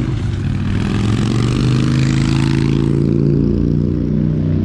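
Road traffic: a motor vehicle passes, its rushing tyre noise swelling and then fading about three seconds in, over a steady low engine hum.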